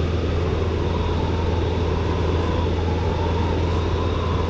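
Steady drone of a Robin DR400-120 light aircraft's four-cylinder piston engine and propeller in cruise, even and unbroken.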